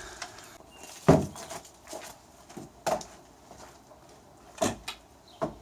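A few scattered sharp knocks and thumps, about five, over a faint steady hum.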